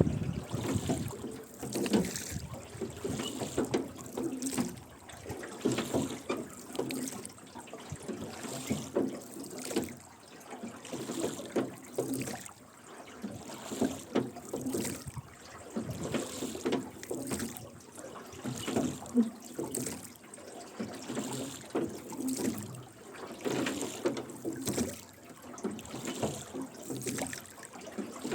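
A rowing boat's oars dipping and splashing in steady strokes, about one every two seconds. The oarlocks creak with each pull, and water trickles off the blades.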